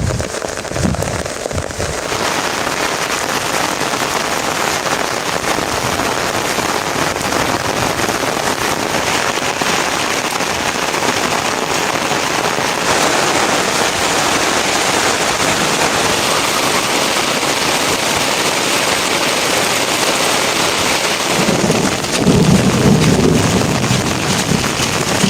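Heavy rain falling steadily. A low rumble rises over it near the end.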